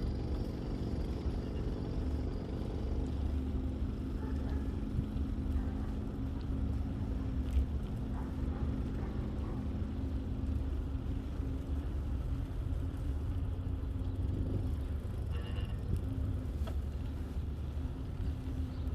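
Steady low rumble of riding a bicycle along a paved path: tyre and wind noise on the microphone, with a low hum running through much of it.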